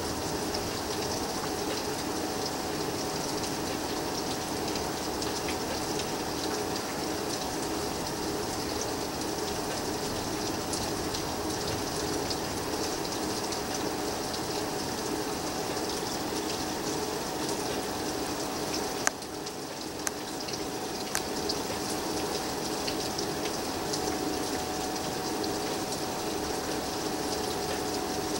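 Steady rain with water running off, a continuous rushing hiss, over a faint steady hum. A sharp click and a brief dip in the noise come about two-thirds of the way through, followed by a few small clicks.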